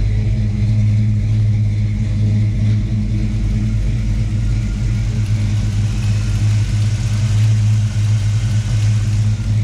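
Chevrolet 350 crate V8 with a mild cam and an Edelbrock four-barrel carburettor idling steadily in a 1952 Chevrolet 3100 pickup.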